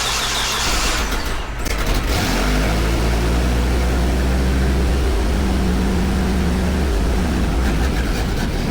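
Truck engine idling, loud and steady, its low note settling in about two seconds in.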